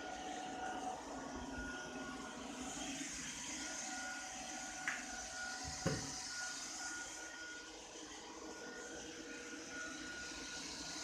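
Ropo Glass robot vacuum cleaner running with a steady hum and a few thin whining tones. There are two short knocks about five and six seconds in, the second the louder.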